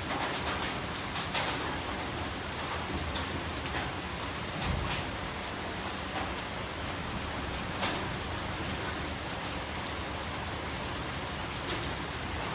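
Steady rain falling, with single drops now and then standing out as brief sharp taps.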